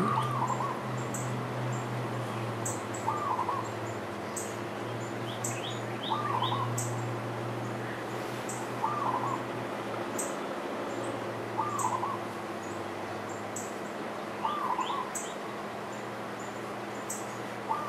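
A bird calling over and over, a short wavering note about every three seconds, seven times in all, with fainter high chirps in between. A steady low hum runs underneath.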